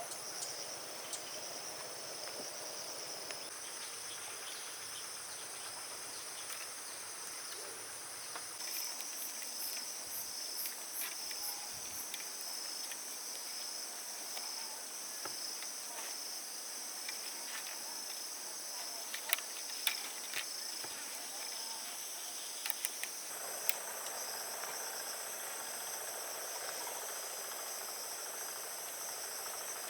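Steady high-pitched chorus of insects, with scattered sharp clicks through the middle stretch.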